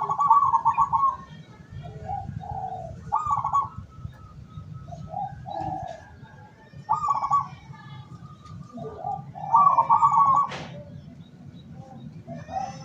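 Zebra dove (local perkutut) cooing: four phrases of quick pulsed coos, with softer lower coo notes between them. A single sharp click comes near the end, over a steady low hum.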